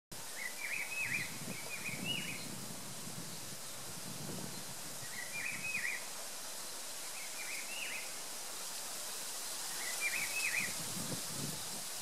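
A small bird calling in short, quickly warbling chirp phrases, five of them spaced a few seconds apart, over a steady high outdoor hiss with a few low rumbles.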